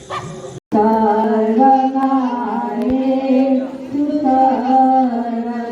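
Voices singing a slow chant-like melody together, starting abruptly after a short break about half a second in.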